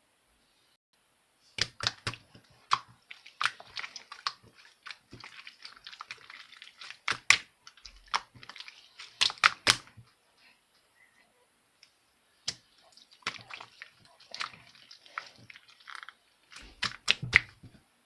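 Slime being mixed and squished by hand: irregular sharp clicks, pops and soft crackling in clusters, with a lull about ten seconds in.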